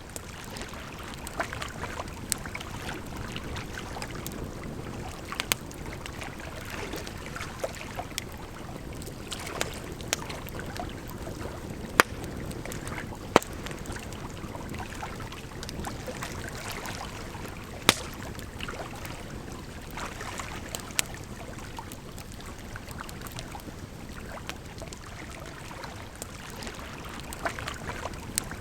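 Campfire crackling, with sharp pops at irregular intervals, over a steady rush of running water.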